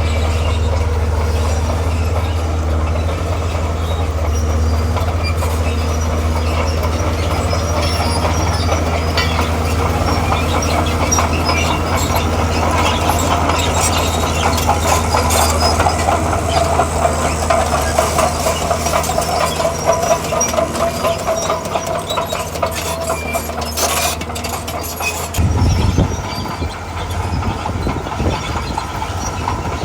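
Diesel engine of a tracked earthmover running under load while its steel tracks clank, with a squealing tone in the middle. About 25 seconds in the low engine drone changes abruptly.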